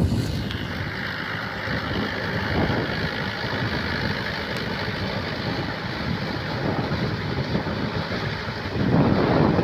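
Tractor engine running steadily, with a louder swell near the end.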